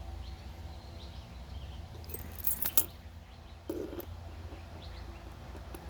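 Small metallic clicks and rattles of a key and ignition lock cylinder being handled and turned, with a few sharper clicks about two to three seconds in.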